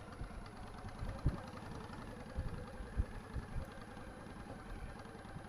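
Motorcycle engine running at low, steady revs, with occasional thumps of wind buffeting the microphone.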